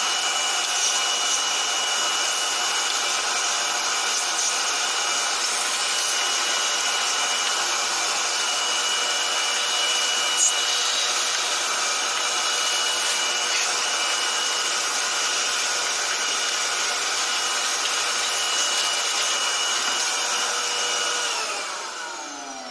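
Lexmark X364dn laser printer's drive mechanism running with a steady grinding noise and whine. Near the end it spins down, its pitch falling as it stops.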